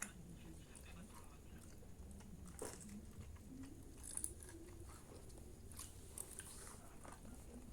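Faint eating sounds from people eating fried rice and fried noodles: chewing, with a few scattered light clicks over a low steady hum.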